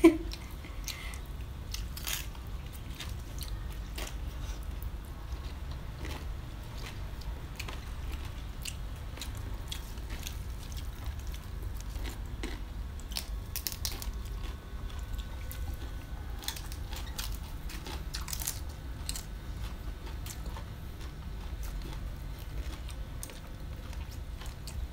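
Close-up chewing and biting of fresh cabbage-leaf wraps filled with grilled fish and rice noodles, with many scattered sharp clicks of crisp bites and mouth noises over a low steady hum.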